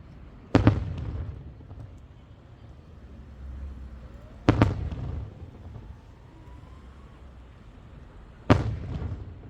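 Aerial firework shells bursting: three loud booms about four seconds apart, each followed by a fading rumbling echo.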